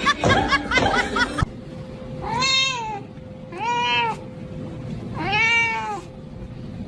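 Voices and laughter for the first second or so, then a cat meowing three times. Each meow is a long call that rises and then falls in pitch.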